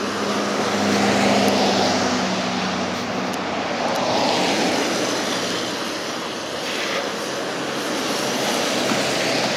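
Steady motor-vehicle engine and road noise, swelling and easing slowly, with a low engine hum that fades after the first couple of seconds.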